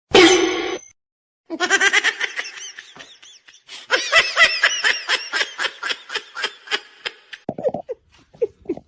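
Laughter: a long run of quick, repeated bursts of laughing that fades out near the end.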